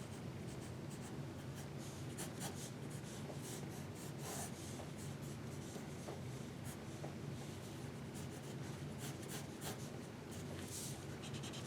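Pencil strokes on paper, a soft, uneven run of short scratches as a cartoon is sketched, over a low steady room hum.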